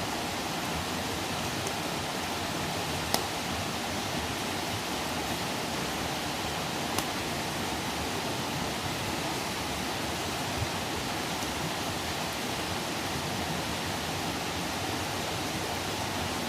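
Wood campfire burning: a steady hiss with a few sharp pops and crackles, the loudest about three seconds in.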